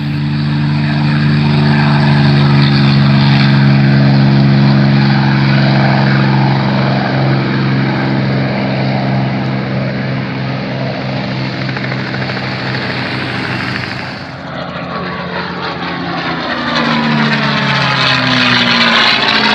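Propeller aircraft engine droning as the plane flies by. Its pitch drops in the last few seconds as it passes.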